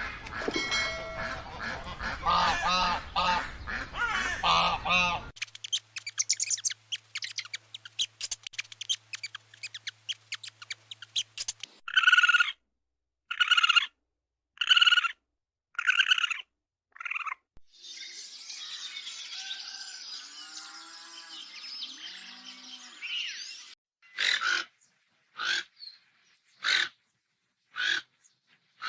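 Bird calls in several short clips one after another, with abrupt changes between them. Partway through comes a run of six short calls about a second apart, and near the end a further series of short sharp calls.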